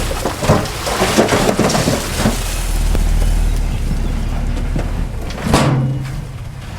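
Heavy earthmoving machinery working soil: a deep diesel rumble, strongest around the middle, under the crackle and crunch of loose dirt and stones shifting.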